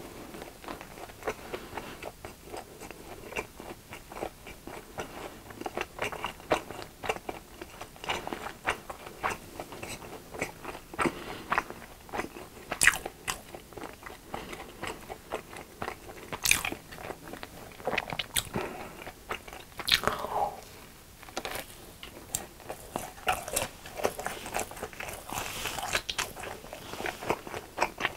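Close-miked chewing of a crunchy crumb-coated Dwaejibar hot dog: bites and many irregular crisp crunches.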